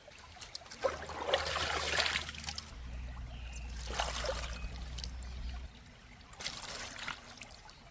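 Water trickling, in three short spells, over a low steady hum that stops a little past halfway.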